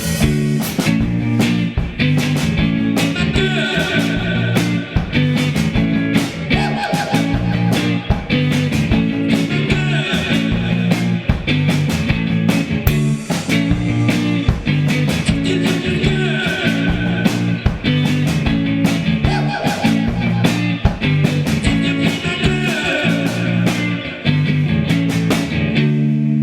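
Psychedelic rock music: a band with electric guitar plays a repeating riff over bass and steady, evenly spaced beats. Near the end the beats stop and a chord rings on.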